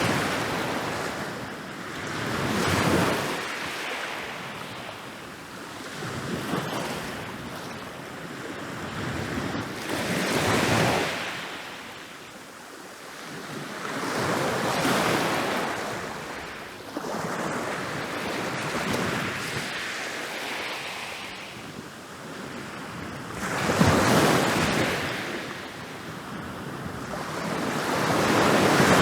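Ocean waves breaking and rolling up a beach, each surge swelling and washing away every few seconds, the biggest crashes near the end.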